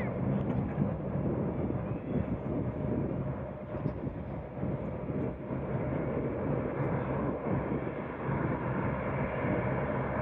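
Airplane engine noise: a steady, fairly loud wash of sound with a low hum underneath.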